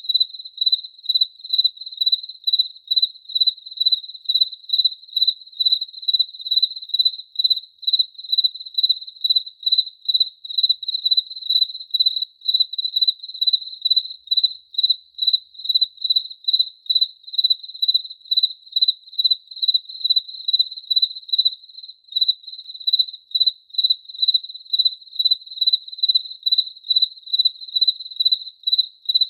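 A cricket chirping steadily: a single high, pure-toned chirp repeated evenly about two to three times a second.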